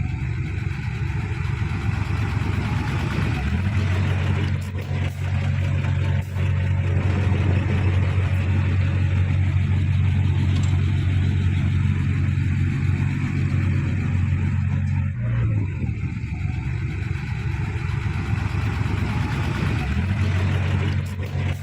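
Heavy diesel engines of a bulldozer and dump truck running hard under load, a steady low drone. It swells about three seconds in and dips briefly about two-thirds of the way through before picking up again.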